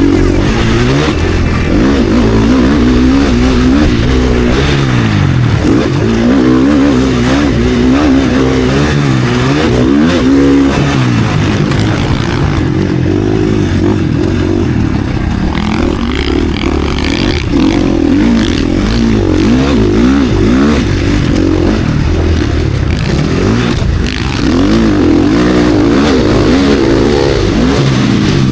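KTM SX-F single-cylinder four-stroke motocross bike engine running hard, its pitch rising and falling over and over as it is revved and throttled off.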